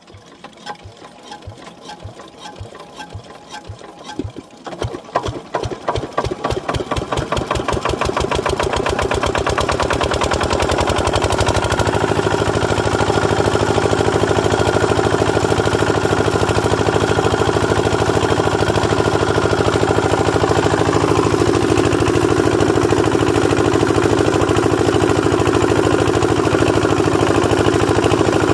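Diesel water pump engine being started: a few seconds of slow, even strokes as it turns over, then it catches, the beats quicken and within about ten seconds it settles into steady running.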